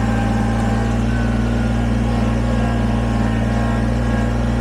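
Kubota BX23S sub-compact tractor's three-cylinder diesel engine running at a steady speed as the tractor drives along.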